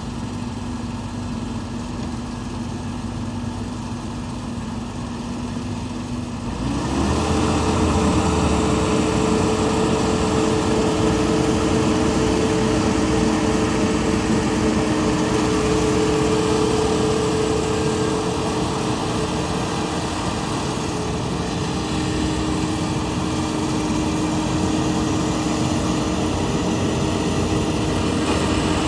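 Rice harvesting machine's engine running steadily, then about six and a half seconds in it turns louder and fuller as the machine is throttled up, and it holds that steady working sound for the rest of the time.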